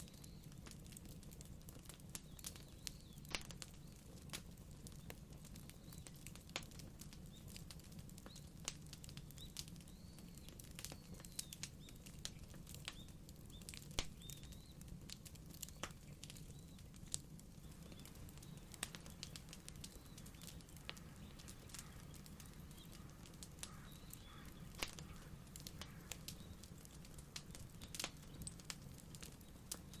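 Wood fire crackling: irregular sharp pops and snaps, some louder than others, over a faint steady low rumble.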